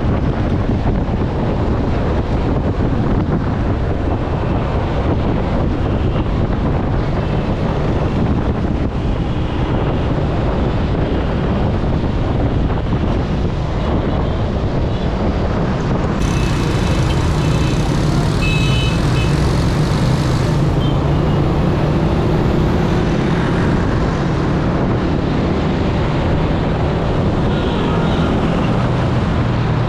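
Steady road traffic noise, vehicles running close by, with a low engine hum coming in a little past halfway.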